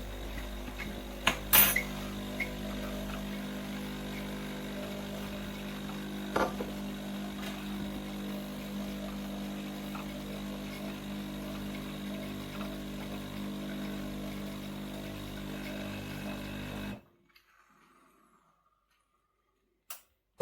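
De'Longhi Dinamica Plus bean-to-cup coffee machine running with a steady hum for about seventeen seconds, then cutting off abruptly. Sharp clicks come in the first two seconds and once more a few seconds later.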